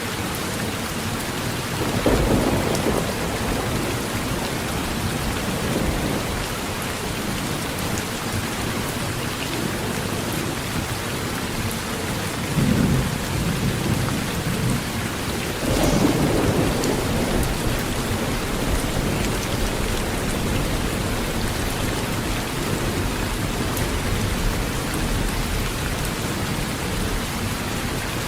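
Steady heavy rain on a metal roof, with rolls of thunder rumbling about two seconds in, near the middle and again a few seconds later, the last the loudest.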